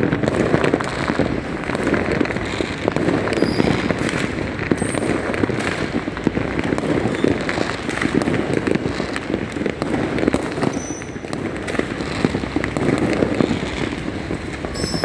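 Many fireworks and firecrackers going off at once in a dense, unbroken barrage of bangs and crackling, with no let-up. A few brief high whistles cut through it.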